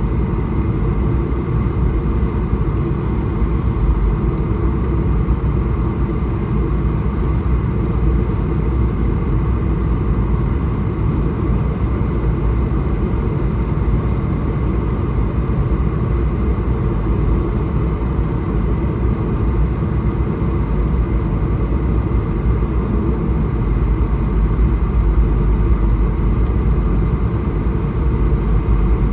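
Steady cabin noise inside an Airbus A220-300 in flight: a deep rush of airflow and the hum of its Pratt & Whitney PW1500G geared turbofan engines, with a few faint steady tones over it.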